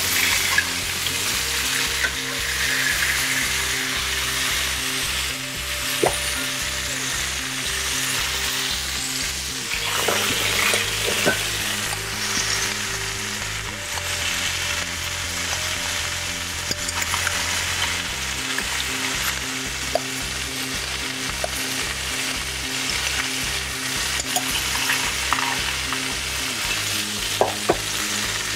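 Chicken thighs sizzling steadily as they fry in a skillet, with a few sharp clicks of metal tongs against the pan. Background music with a steady beat plays underneath.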